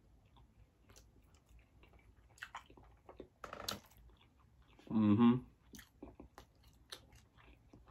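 Close-up eating sounds of someone chewing smoked turkey-leg meat dipped in garlic sauce: wet chewing and lip smacks with many small mouth clicks. A short hum of the voice about five seconds in is the loudest sound.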